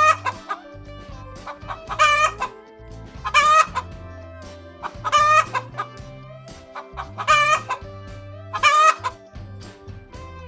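Chicken calls: six loud, short calls about every one and a half to two seconds, over background music.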